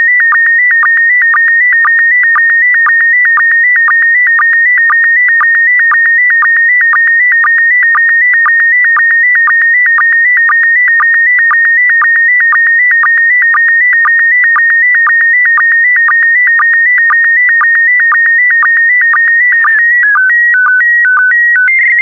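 PD120 slow-scan television signal: a steady tone near 2 kHz broken by a short, lower sync pulse about twice a second, one pulse per scan-line pair of the image. Near the end it changes to a few stepped tones alternating between two pitches, then a single high tone as the transmission finishes.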